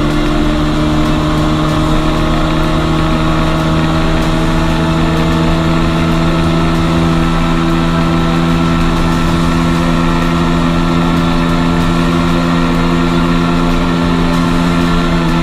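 A 250cc sport motorcycle engine running loud and steady at high revs, its pitch holding nearly level.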